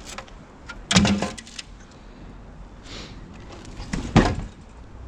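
Rubbish being shifted about in a skip, with two bursts of clattering knocks: one about a second in and a sharper one about four seconds in.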